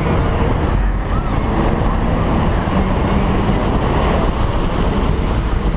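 Car engine running steadily at a fairly even pitch, with a heavy low rumble.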